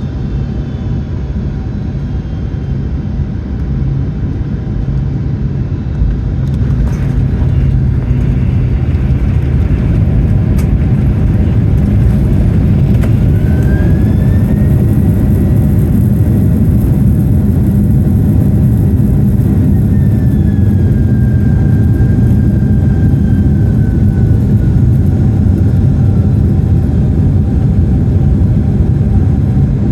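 Cabin sound of a Boeing 767-400 landing: a steady drone of engines and airflow, then about six seconds in a sudden jump to a louder rumble and hiss as the wheels run on the runway, with a couple of sharp knocks. An engine whine rises and then slowly falls away, as the engines spool up for reverse thrust and wind back down.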